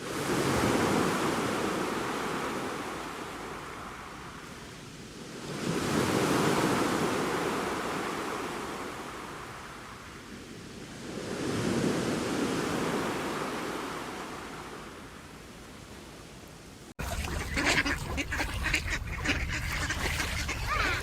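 Waves breaking on a shore three times, each surge rising quickly and fading over several seconds. Near the end a sudden cut brings a busy patter of short animal calls and clicks.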